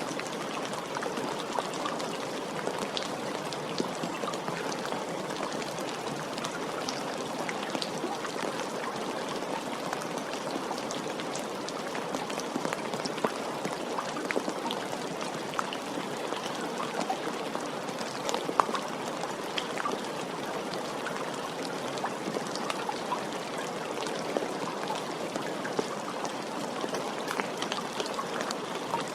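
Steady rain falling, with scattered individual drops ticking sharply.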